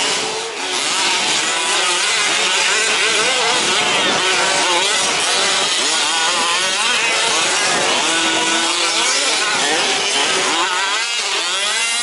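Several 1/5th-scale two-stroke petrol RC trucks racing, their small engines revving up and down over one another in a constant buzzing whine of many rising and falling pitches.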